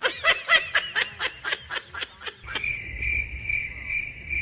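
A rapid run of short, high squeaky notes for about two seconds, then cricket chirping: an even pulsing trill, about two chirps a second.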